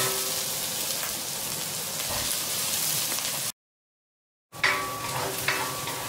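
Chopped onion, garlic, green chillies and ginger sizzling in hot oil in a wok as they are stirred with a spatula: a steady frying hiss. It cuts off abruptly about three and a half seconds in, goes dead silent for about a second, then the hiss returns.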